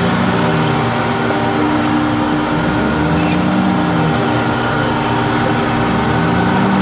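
Diesel engine of a heavy car-handling machine running steadily under working load. Its pitch rises and falls in brief swells about every three seconds.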